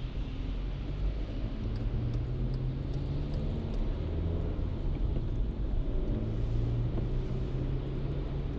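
A car driving on a city street: a steady low rumble of engine and tyre noise, with an engine hum that swells and eases over the seconds.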